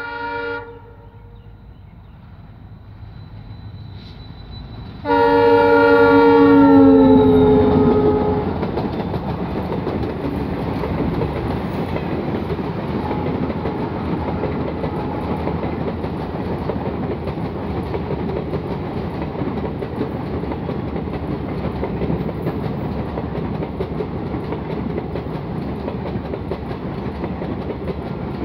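A passenger train passing close by: the locomotive's multi-tone horn ends just after the start, then a second, louder horn blast about five seconds in drops in pitch as the locomotive goes by. After that the coaches roll past with steady wheel-on-rail rumble and clickety-clack over the rail joints.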